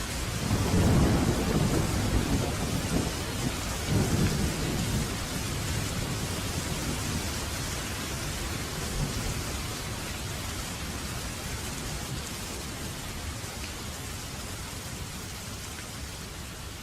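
Steady rain with a rumble of thunder that rolls in about half a second in, swells again around four seconds, and slowly fades under the rain.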